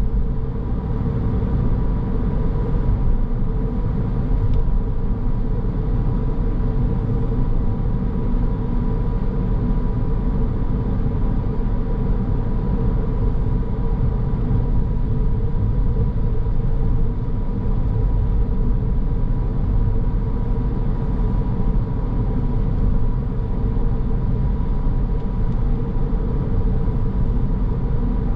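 A car driving steadily: even road and engine rumble, with a faint steady high tone running through it.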